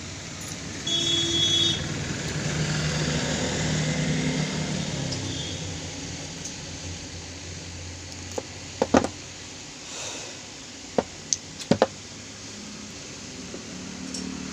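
Sharp metallic clicks and clinks of tools on motorcycle gearbox parts as a circlip is taken off the gear shaft, several coming in quick succession from about eight seconds in. Road traffic passes in the background, with a short horn about a second in.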